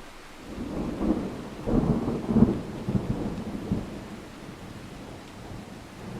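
A roll of thunder over steady rain: a rumble builds about half a second in, breaks into several loud peaks, the strongest about two and a half seconds in, and dies away by about four seconds.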